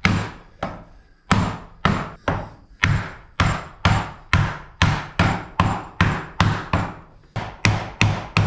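Hammer knocking on the wooden parts of a cedar beehive box as it is put together: a steady run of sharp knocks, about two to three a second, with brief pauses about a second in and near the end.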